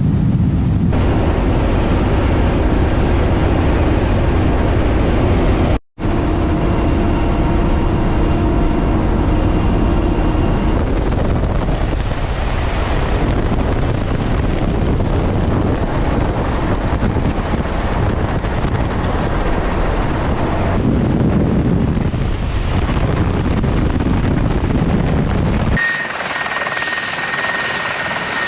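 Mi-8 helicopter's turbine engines and rotor running steadily. The sound changes abruptly every few seconds between cut-together shots, with a brief dropout about six seconds in.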